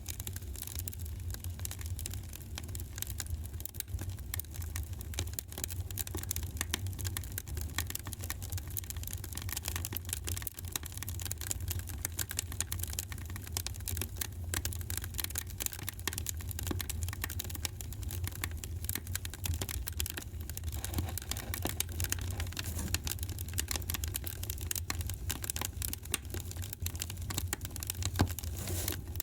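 Wood fire crackling with dense, irregular small pops over a steady low rumble.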